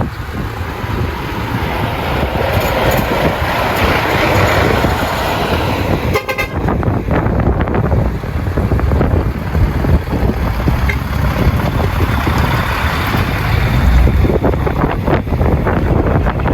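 Heavy diesel trucks pulling out and driving past, their engines running loud through piped-out exhausts, with a deep rumble throughout.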